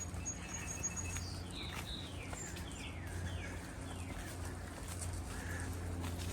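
A songbird singing: a thin, high held note, then a run of about six down-slurred whistles. A steady low hum runs underneath.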